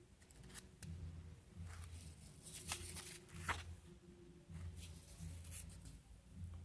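Faint rustling of paper and soft clicks as the pages of an old comic book are handled and turned.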